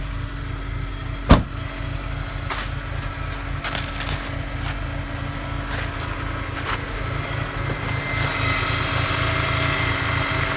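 Car engine running steadily, with one sharp knock about a second in; from about eight seconds in a high whine comes in over the engine and grows louder. The whine is the transmission, in a car whose transmission has blown.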